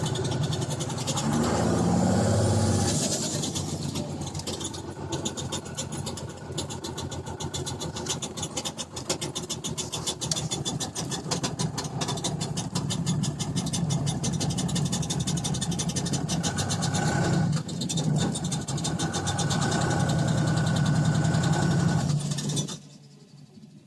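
Truck engine running with a rapid, even firing rhythm, rising briefly about two seconds in, then shut off near the end.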